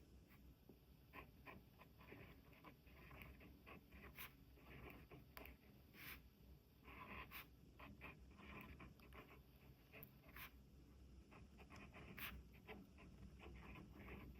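Near silence with faint, irregular small scratches and soft clicks scattered throughout, like light handling or writing on paper.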